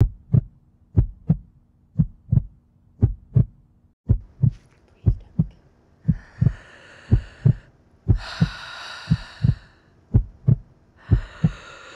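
Heartbeat: a steady double thump (lub-dub) about once a second. From about six seconds in, a breathy rushing noise comes and goes over it in stretches of a second or so.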